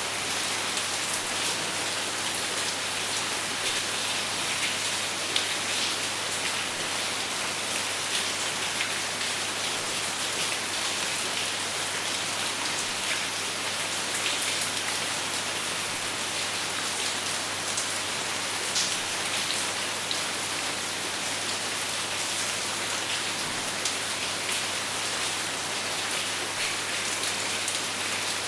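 Steady rain falling, a continuous hiss with scattered drop ticks and no thunder.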